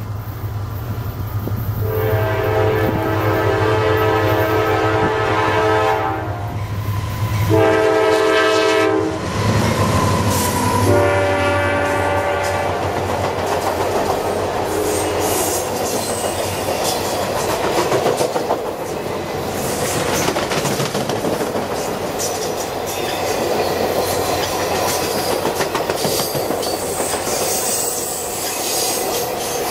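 A diesel locomotive's air horn sounds in several blasts, the first about four seconds long, over a deep engine rumble as the train comes up and passes. Then the circus train's passenger cars roll by close at speed, with a steady rushing noise and the clickety-clack of wheels over rail joints.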